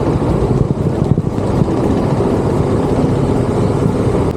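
Royal Enfield Bullet 350's single-cylinder engine running steadily while the motorcycle is ridden along at road speed, a dense, even rumble.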